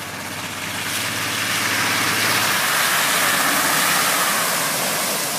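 Car driving through deep standing floodwater, its tyres throwing up a rushing spray that swells to a peak about four seconds in and then eases off, with the engine running underneath.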